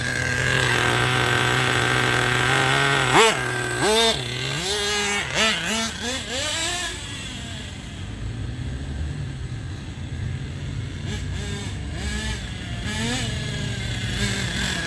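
Small 21R nitro glow engine, freshly re-pinched with a new plug, running while it warms up. It holds a steady high-pitched tone, is blipped up and back down five or six times over a few seconds, then settles to a quieter idle with a couple of small blips near the end.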